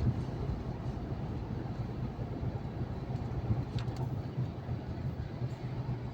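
Truck driving at steady speed: a steady low drone of engine and road noise, with a faint click a little under four seconds in.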